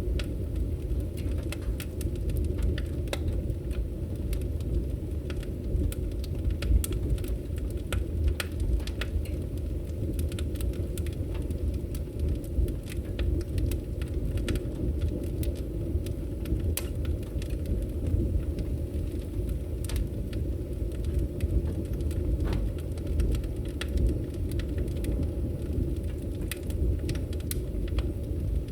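Wood fire burning in a fireplace: a steady low roar of flames with frequent sharp, irregular crackles and pops of burning wood.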